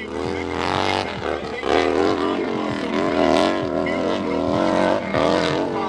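Large-displacement hillclimb motorcycle engine running hard under throttle, its pitch rising and falling as the rider works the throttle on the climb.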